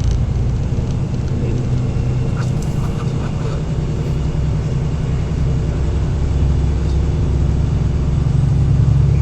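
Heavy-haul semi-truck's diesel engine running under way, a steady low drone that grows a little louder near the end.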